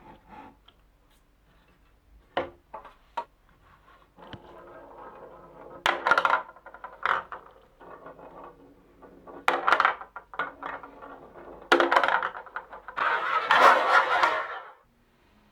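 Glass marbles rolling and clattering along a wooden marble-run track: a few sharp clicks at first, then a steady rolling hiss broken by repeated loud clacking runs, ending in a dense burst of clatter that stops suddenly near the end.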